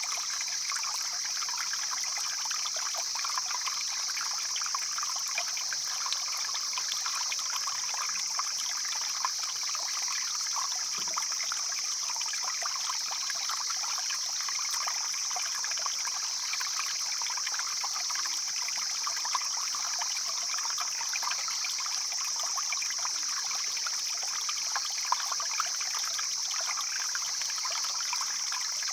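Mountain stream flowing steadily: a dense trickling and babbling of water, with a steady high-pitched hiss over it.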